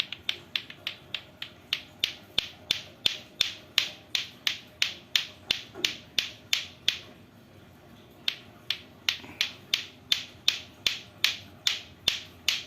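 Lato-lato clacker balls, two hard plastic balls on a string, knocking together in a steady rhythm of about three sharp clacks a second. The clacking stops for about a second roughly two-thirds of the way through, then starts again.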